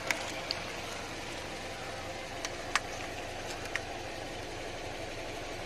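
Car engine idling steadily, with a few short, sharp clicks over it.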